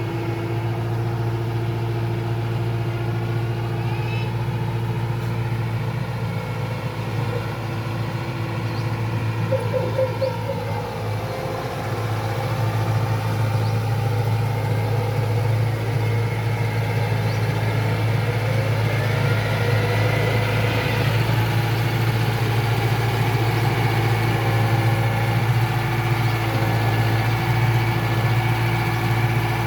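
Diesel engine of a Kubota DC-105X combine harvester running steadily with a low hum, a little louder after about twelve seconds.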